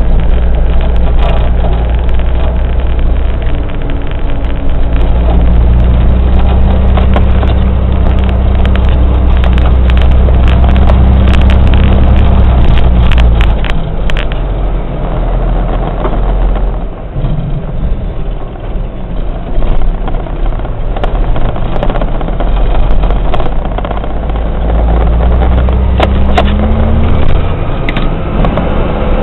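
Kenworth water truck's heavy diesel engine running loud while the truck is driven through the gears. Its level drops for a few seconds past the middle, and near the end the engine's pitch rises as it pulls in a gear, with light rattling clicks over it.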